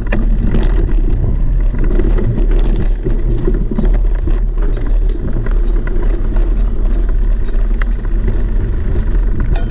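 Steady, loud low rumble of a vehicle in motion.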